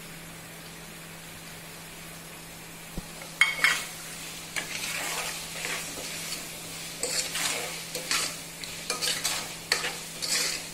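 Onion-tomato masala frying in oil in a pan, a utensil stirring and scraping it in irregular strokes with sizzling. The stirring starts about three and a half seconds in, after a steady low hum.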